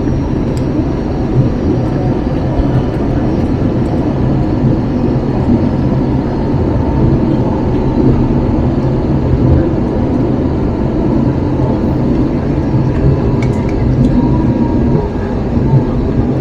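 Steady engine and airflow noise inside the cabin of an Airbus A321-231 in flight, dominated by low rumble with a faint steady tone.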